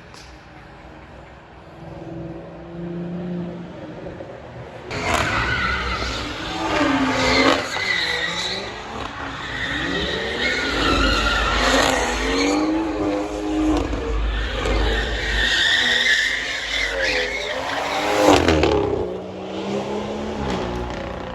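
Car engine revving hard with tyres squealing, loud from about five seconds in and easing off near the end, after a quieter start.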